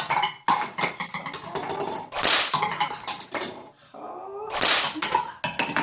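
Sounds made with a glass: a series of short rasping, noisy bursts, with a few brief rising squeaks.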